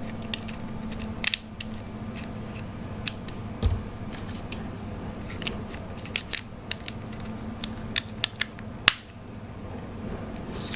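Packaging being handled during an unboxing: a scattered run of sharp clicks and light taps, the loudest cluster about eight to nine seconds in, over a steady low hum.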